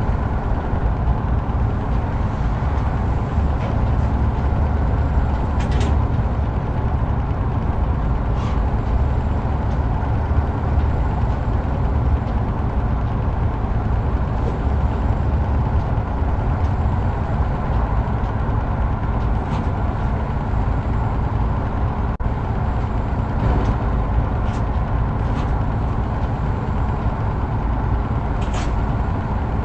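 Heavy truck driving at a steady speed: a continuous low engine drone with road noise, and a few faint ticks now and then.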